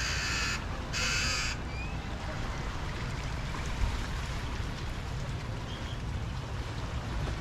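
A bird gives two harsh, raspy calls in the first second and a half. Under them runs a steady low rumble of surf and wind from the harbor and beach.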